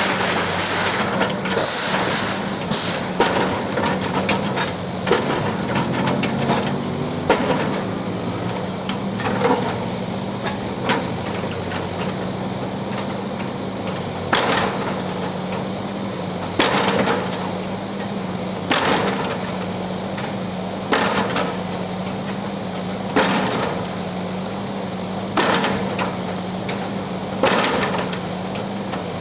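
Heavy diesel engine of a demolition bulldozer running steadily, with sharp cracks and knocks of the building being broken up. From about halfway the knocks come at a regular pace, roughly one every two seconds.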